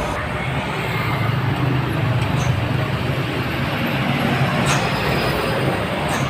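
Dump truck engine running with a steady low drone and rumble.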